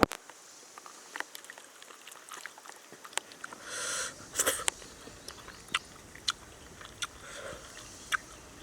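A person eating, with small sharp clicks of biting and chewing scattered through and a brief rustle about halfway in.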